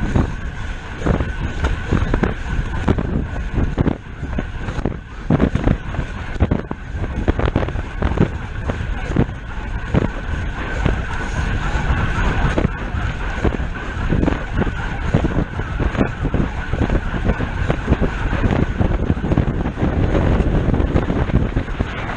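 Wind buffeting the microphone of a road bike ridden at race speed, over tyre and drivetrain noise, with a steady high whirr and many irregular knocks and rattles.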